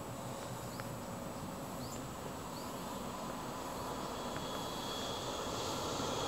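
An approaching passenger train, its sound growing slowly louder toward the end, over a quiet outdoor background with faint insects and a few short bird chirps.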